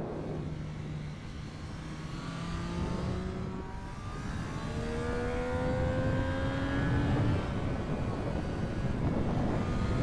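Triumph Street Triple 765 RS's inline three-cylinder engine pulling under acceleration: its note holds steady, breaks for a gear change about four seconds in, then climbs slowly in pitch as it revs up through the next gear.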